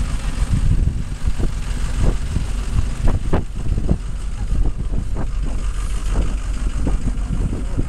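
Low, steady rumble of motor traffic on a city street, with irregular short clicks and knocks.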